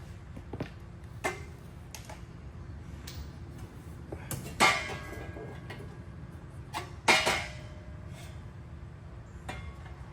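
Metal clanks and knocks, five in all, the two loudest ringing briefly, as metal exhaust parts are handled, over a steady low hum.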